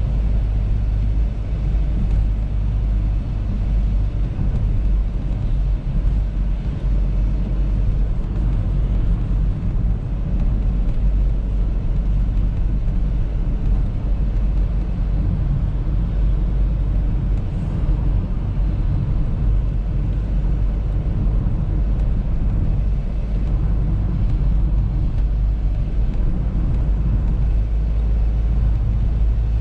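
Audi A3 driving at steady speed: a continuous low rumble of road and engine noise that holds even throughout.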